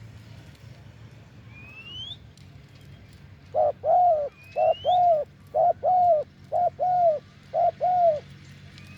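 Spotted dove cooing: five two-part coos in a row, each a short note and then a longer arched one, starting a few seconds in. A short rising whistle from another small bird repeats about every two seconds.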